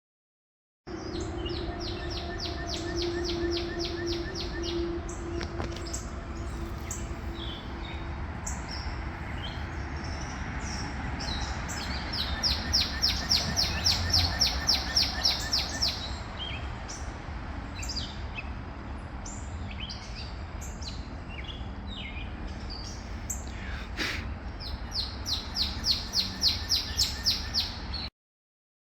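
A songbird singing a fast trill of evenly repeated high notes, about three seconds long, three times over, with other birds giving short calls, over a steady low rumble.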